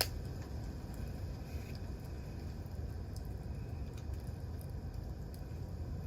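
Wood campfire burning, with scattered small crackles and pops over a steady low rumble; a sharp pop comes right at the start.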